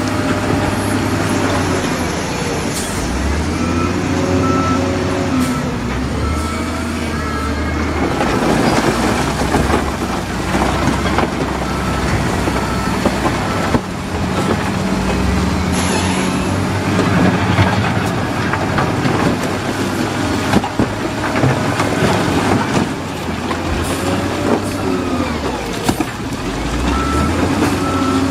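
Heavy diesel engines of a bulldozer and dump truck running, rising and falling in pitch as they work, with a dense rattling clatter through the middle. A truck's reversing beeper sounds near the start, again about six seconds in, and near the end.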